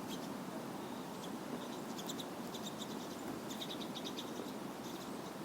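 A flock of pine siskins twittering: clusters of short, high chips, busiest about two seconds in and again a little later, over a steady background hiss.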